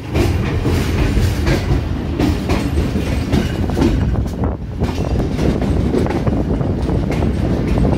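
Passenger train coach running on the rails, heard from its open doorway: a loud steady rumble of wheels and running gear with repeated clacks as the wheels pass over rail joints, in an uneven rhythm about twice a second.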